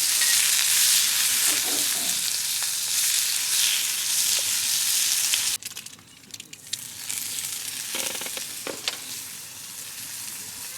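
Food sizzling in a hot pan, a steady frying hiss that cuts off suddenly about halfway, then goes on quieter with a few sharp clinks.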